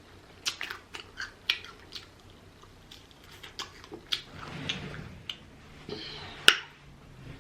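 Close-miked chewing of rotisserie chicken: scattered wet mouth clicks and crackles, with one sharp click about six and a half seconds in.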